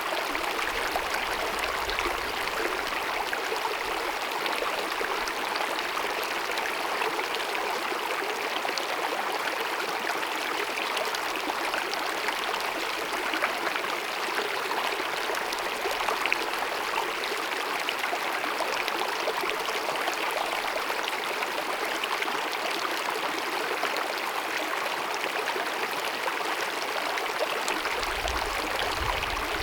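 Glacier-fed mountain meadow stream babbling over rocks: a steady rush of running water.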